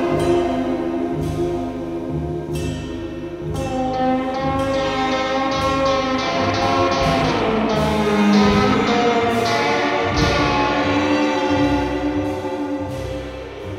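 Live indie band music: sustained layered chords over a pulsing bass line, with regular strummed or struck accents.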